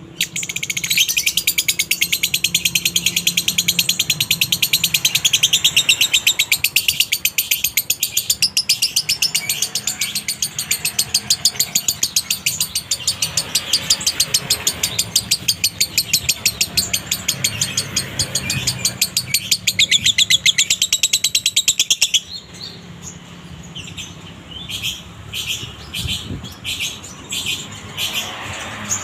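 Lovebird singing a long 'konslet' bout: a fast, unbroken stream of high, dry chirps that runs for about twenty seconds. It then breaks off into separate short chirps.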